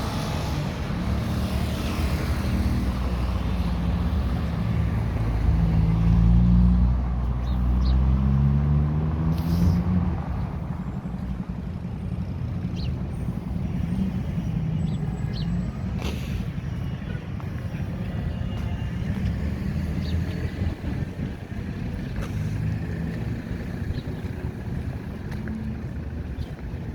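Street traffic on a busy avenue: a vehicle engine passes close by, rising to its loudest about six or seven seconds in and fading by about ten seconds, followed by a steady hum of traffic with a few short knocks.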